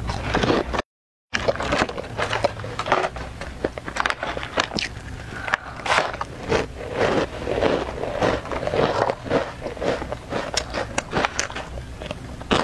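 Close-miked crunching and chewing of crisp snacks: many irregular sharp crunches, with a brief cut to silence about a second in.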